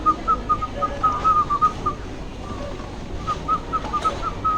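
A rapid string of short whistled notes, about five a second, in two runs with a pause of over a second between them.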